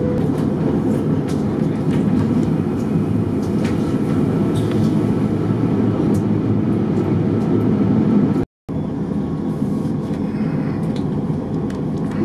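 Mont Blanc Express metre-gauge electric train running along the track: a steady, dense rumble with scattered clicks of the wheels on the rails. The sound cuts out completely for a moment about eight seconds in.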